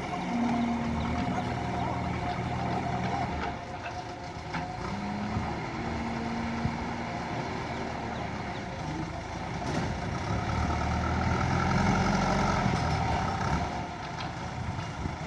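JCB 3DX backhoe loader's Kirloskar diesel engine running steadily while working, its revs rising under load about two-thirds of the way in and dropping back near the end.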